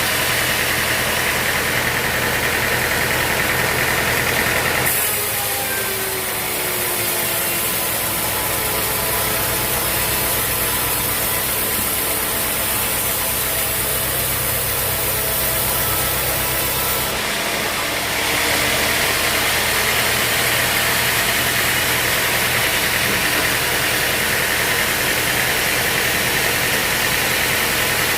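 Sawmill engine running steadily under a strong hiss. The sound changes abruptly about five seconds in to a deeper, steadier hum, then switches back near seventeen seconds in.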